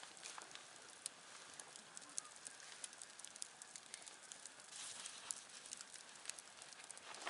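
Wood campfire burning quietly: a faint, steady hiss with scattered small crackles and pops at irregular intervals.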